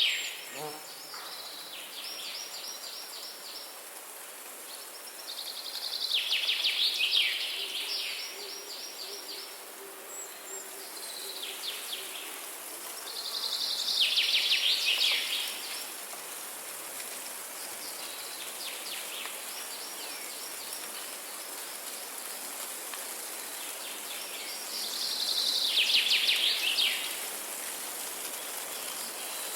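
Songbirds singing repeated fast trills, each phrase a second or two long and coming every few seconds. The loudest phrases fall about six, fourteen and twenty-six seconds in, over a steady high hiss of insects or distant ambience.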